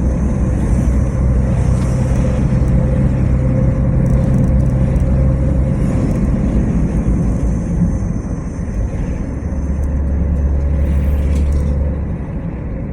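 A motor vehicle driving on a road: a steady low engine and road rumble with a faint steady hum, easing about halfway through and swelling again near the end.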